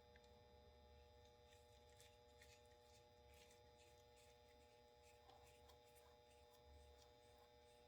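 Near silence: a faint steady hum with a few faint small clicks.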